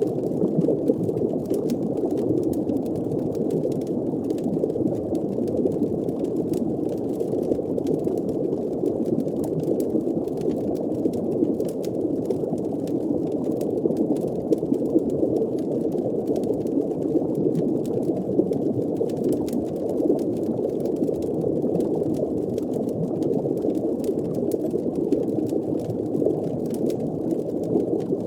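Steady, muffled underwater ambience: a low bubbling rumble, with faint scattered clicks throughout.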